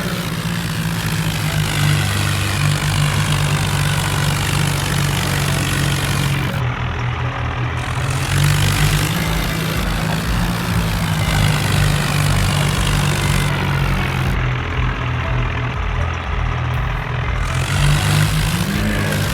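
Tractor engines running hard and steadily, pulling against each other in a tug-of-war. The engine note rises in pitch near the end.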